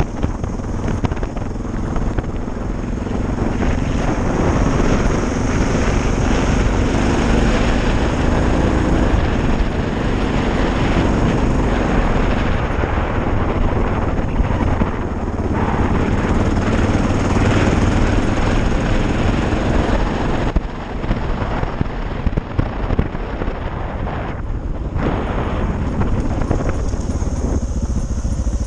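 Suzuki DR650's single-cylinder four-stroke engine pulling steadily as the motorcycle climbs a gravel road, mixed with wind noise on the helmet-mounted microphone. The engine eases off briefly about twenty seconds in.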